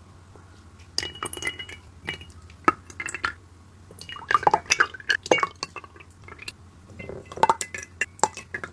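Kitchen utensils clinking and tapping against glass bowls and dishes in several short bursts of sharp clicks, some leaving a brief ring, during food preparation.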